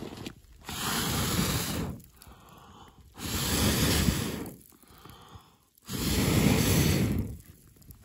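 A person blowing hard into a weak, slow-burning campfire to fan it: three long, even blows of about a second and a half each, with short quiet in-breaths between them.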